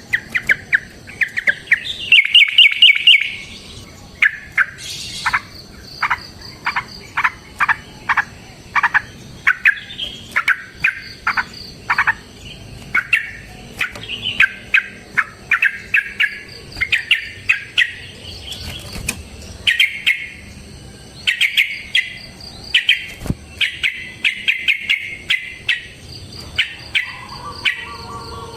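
Yellow-vented bulbul (trucukan) singing vigorously: a continuous run of quick, bubbly chirping phrases, with a stretch of short downward-sweeping notes partway through.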